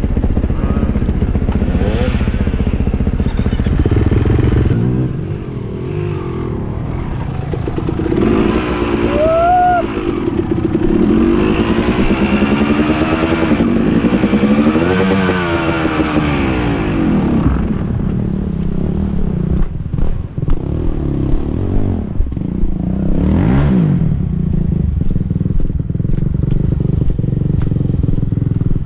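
Dirt bike engine revving up and down in repeated throttle bursts while it struggles up a slick muddy hill, with a few short knocks partway through.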